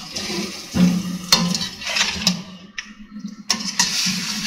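A slotted metal spatula scraping and clinking against a steel karahi as chicken karahi is stirred, several clinks over a steady sizzle of the simmering gravy.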